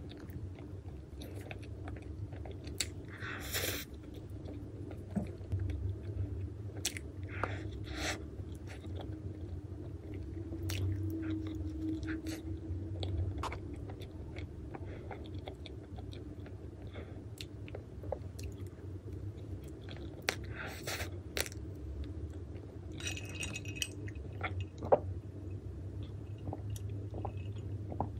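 Close-miked chewing of soft chocolate cream castella cake, with scattered light clicks of a metal fork against the plastic cake tray.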